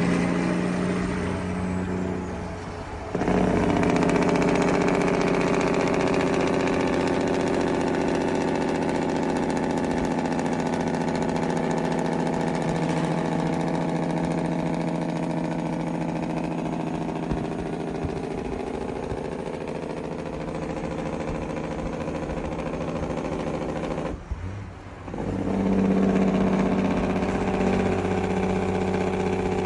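Truck engine running steadily. It drops off briefly about three seconds in and again near twenty-four seconds, then picks back up.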